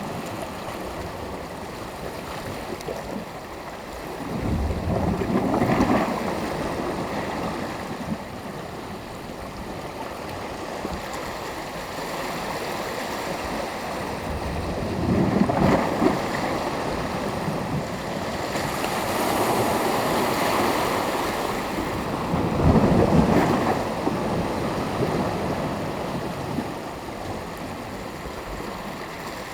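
Sea waves breaking and washing on the shore, with three larger waves swelling and crashing about five, fifteen and twenty-three seconds in.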